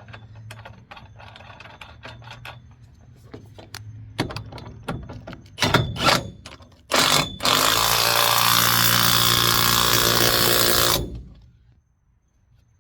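Light clicks and knocks of a nut and washer being fitted, then a power impact wrench running loudly for about four seconds and cutting off sharply as it drives a crane mounting bolt tight.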